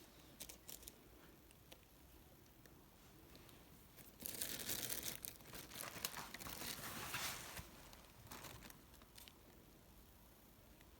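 A kitten rummaging in a cupboard, pushing against things that rustle and crinkle: a louder stretch of crinkling from about four seconds in, lasting some three seconds, with a few light clicks and taps before and after.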